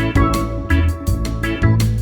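Upbeat island-style background music: plucked guitar-like notes over a strong bass line, with a new note or chord about every half second.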